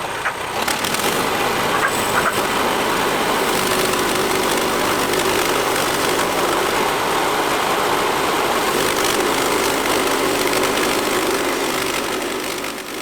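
Portable band sawmill's gas engine running under load as the band blade cuts through a black walnut log. The sound is steady, then fades away near the end.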